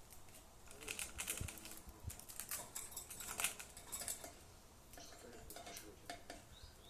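Budgerigars busily pecking and nibbling: an irregular run of small taps and scratches, thickest in the first half, with faint budgie warbling in the gaps.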